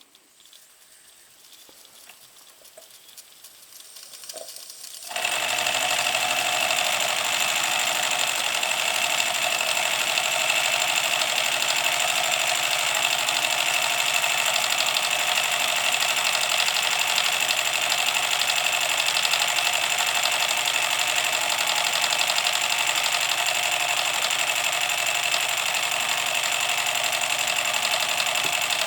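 Small live-steam MSS side tank locomotive running, with fast, even exhaust chuffing. The sound comes in suddenly about five seconds in after a quiet start, then holds steady.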